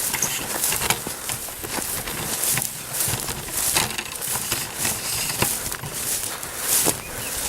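Irregular rustling and crunching in dry leaves and grass, a sharp crackle every half second or so.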